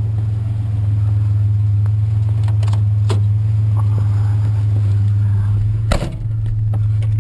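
Pickup truck engine running with a steady low hum, with a few short knocks, about three and six seconds in.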